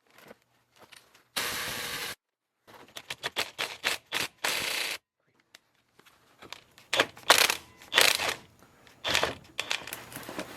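Rapid, even clicking of a hand ratchet loosening a plug on a hydraulic cylinder's counterbalance valve, in short edited clips, with two brief bursts of rushing noise and, from about seven seconds in, louder irregular metal knocks.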